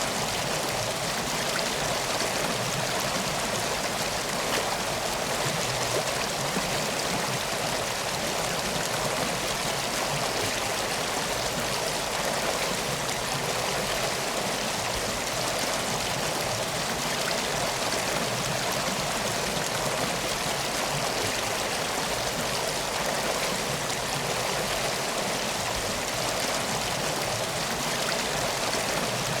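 Steady rushing and trickling of a flowing stream, even and unbroken.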